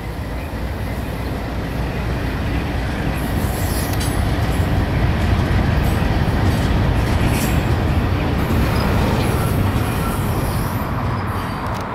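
BNSF freight train passing close by: its diesel-electric locomotives rumble past, then double-stack intermodal container cars roll by on steel wheels over the rails. It grows louder toward the middle and eases off near the end.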